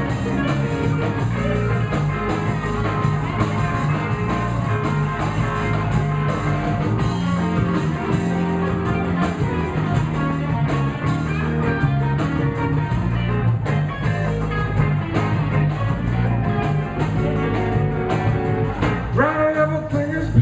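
Live blues band playing an instrumental stretch with electric guitar, bass and drums keeping a steady beat. Near the end a note slides in pitch.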